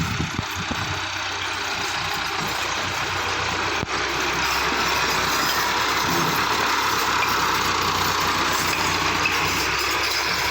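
Tractor engine running steadily, with a brief break about four seconds in.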